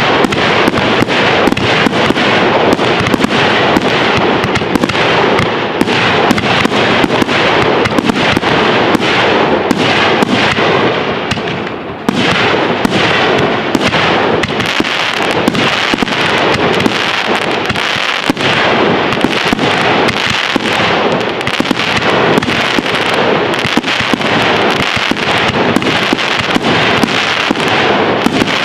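Fireworks display: a dense, continuous barrage of aerial shell bursts and crackling, loud throughout, with a short lull about twelve seconds in.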